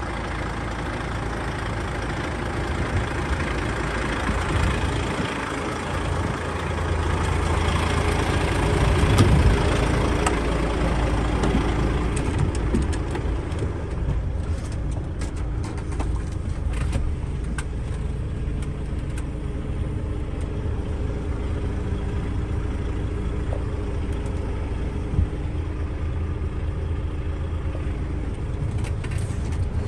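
DAF XF105.460 tractor unit's diesel engine running at idle, a little louder for a moment about nine seconds in, with a few light clicks in the middle.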